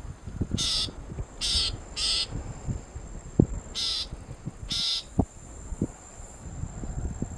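Grey-backed shrike giving five short, harsh, rasping calls: three in quick succession, then two more about two seconds later. Low rumble and a few soft knocks lie underneath.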